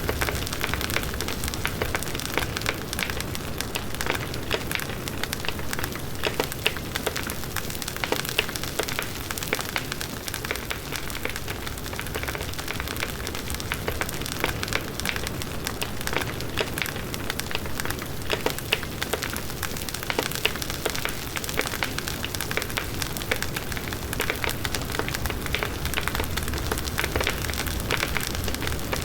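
Large wood bonfire burning steadily: dense crackling and popping of the burning wood over a low rush of the flames, with some wind.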